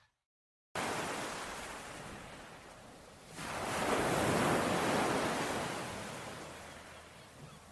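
Sea waves surging on a shore: after a moment of dead silence the surf cuts in suddenly, one wave swells loudly a few seconds in and then slowly draws back.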